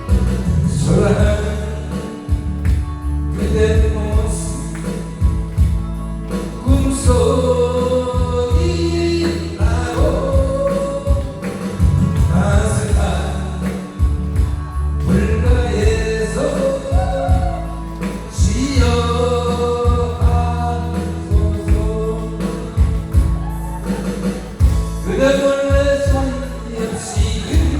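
A person singing a song over backing music with a strong, steady bass.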